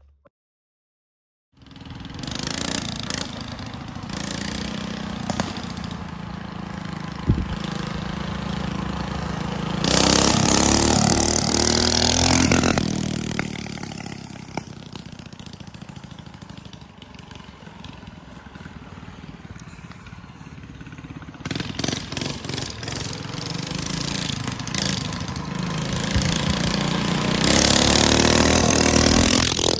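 Minibike with a Predator 212 single-cylinder four-stroke engine running and being ridden, the engine note getting louder twice, about ten seconds in and again near the end, after a second and a half of silence.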